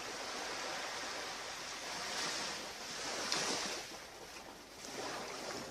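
Ocean surf washing onto a beach: a steady hiss that swells and eases twice as waves break.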